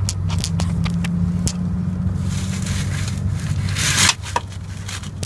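Channel-lock pliers gripping and twisting a plastic radiator drain cock: a few sharp clicks, then a scraping rasp that builds to a peak about four seconds in. A steady low hum runs underneath.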